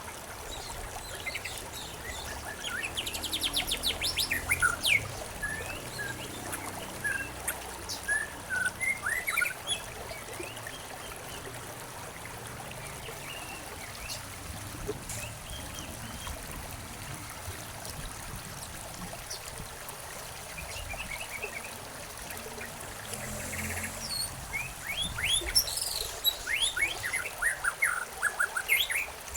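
Small songbirds chirping and calling in quick, overlapping bursts over a steady trickle of running water. The calls are busiest a few seconds in and again near the end, with sparser chirps in between.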